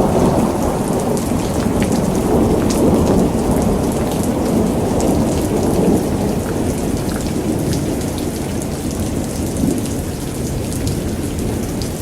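Thunderstorm: steady heavy rain with many sharp drop hits, over a low rolling rumble of thunder that eases off through the second half.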